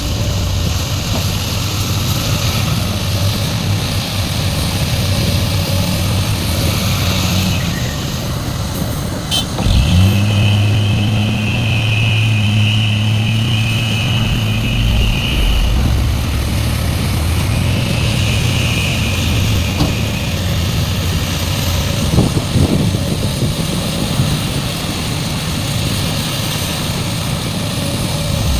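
Large hydraulic excavator's diesel engine running steadily during loading work. About ten seconds in, the engine note rises and a high steady whine joins it for several seconds, then comes back briefly a few seconds later.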